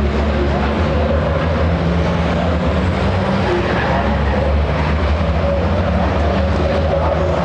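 Race trucks' big diesel engines drone steadily, a loud continuous low rumble with no sudden bangs.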